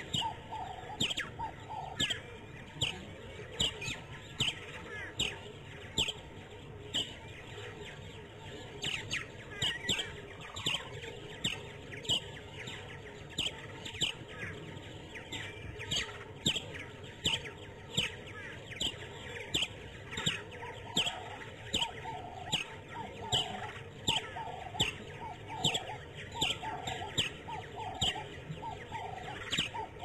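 Birds calling over and over: a steady run of short, sharp, downward-sliding calls, about two a second, over softer, lower chattering.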